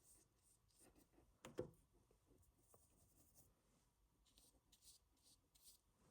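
Faint, soft strokes of a paintbrush on paper, filling in a painted shape, with one brief louder brush or tap sound about a second and a half in.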